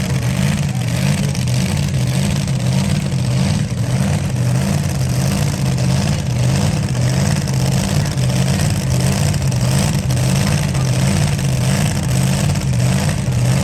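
Loud truck engine running steadily and hard, with no clear rise or fall in pitch.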